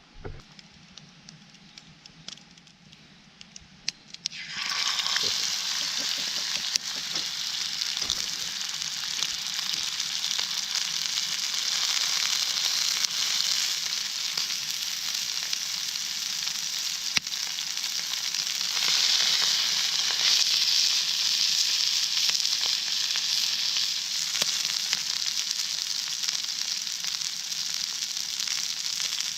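Fillet steak sizzling in a hot skillet over a campfire. The sizzle starts suddenly about four seconds in, after a few light clicks, and swells louder about two-thirds of the way through.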